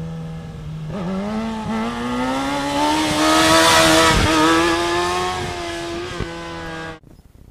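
Sport-bike engine at steady revs, then accelerating: from about a second in the engine note climbs steadily in pitch for several seconds while wind noise grows, and the sound cuts off abruptly near the end.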